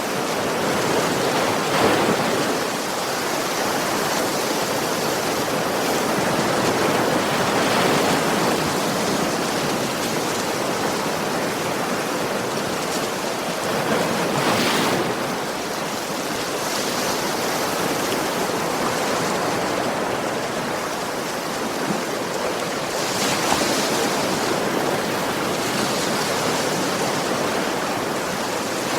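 Ocean waves washing onto a beach, a continuous rush of surf that swells and recedes, with stronger breakers around 2 seconds in, about halfway through, and near the end.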